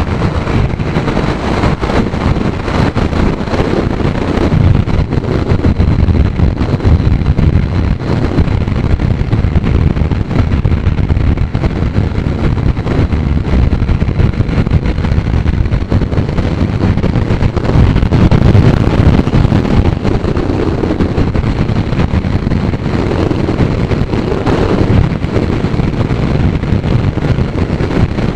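Heavy wind buffeting the rider's camera microphone at riding speed on a Kawasaki Z900 motorcycle, a loud rumbling rush that swells and eases, with the bike's engine running beneath it.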